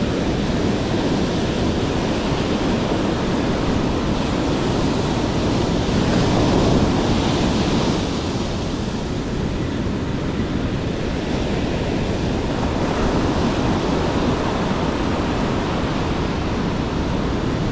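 Steady sea surf with wind buffeting the microphone, swelling briefly about seven seconds in.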